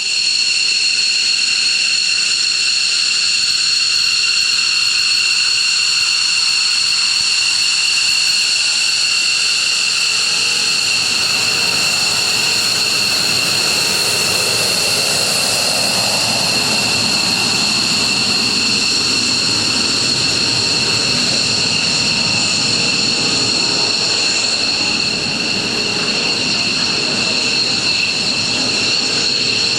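Military jet engines running at taxi power, a steady high-pitched whine with several pure tones over a rushing rumble. The rumble grows louder about a third of the way in as a jet comes closer.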